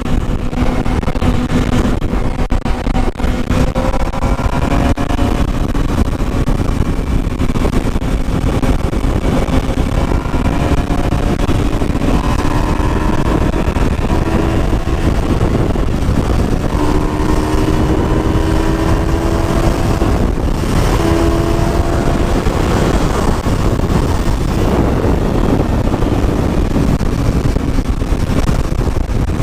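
Motorcycle engine running on the move, with wind rushing over the microphone; the engine pitch climbs several times as the bike accelerates through the gears.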